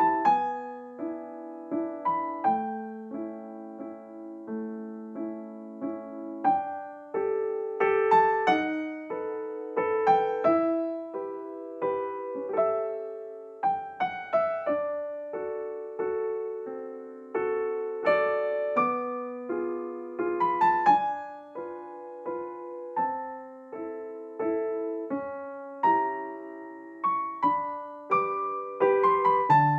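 Background music: a gentle solo piano piece, a slow melody over soft chords, each note struck and fading.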